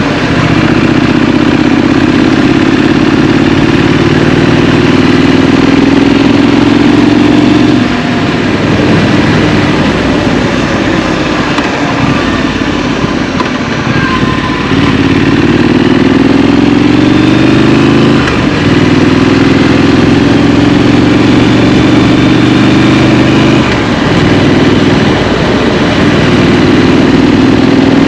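Scrambler motorcycle engine heard from the rider's seat, pulling through the gears: its pitch climbs steadily and drops back at each shift, about three times, with a quieter spell of light throttle between about 8 and 15 seconds. Wind and road noise run underneath.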